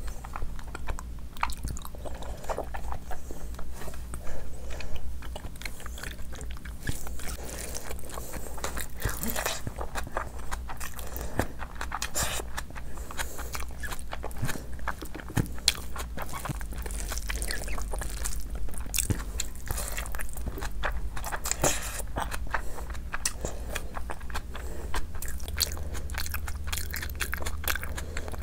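Close-miked chewing and wet mouth sounds from eating rice and curry, in short irregular bursts, with fingers squishing rice and curry together on the plate. A steady low hum sits underneath.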